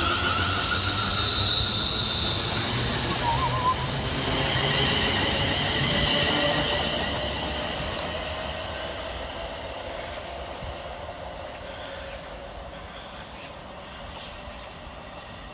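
Class 350 Desiro electric multiple unit moving through the station, with wheel-on-rail noise and a high whine from its electric traction equipment. The sound fades steadily as the train draws away.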